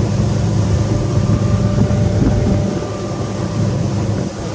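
Motorboat underway, its outboard engine running at a steady drone with a hiss of wind and water over it.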